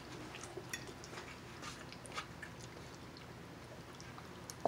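A person chewing food close to the microphone, faint, with small scattered mouth clicks and one sharper click near the end.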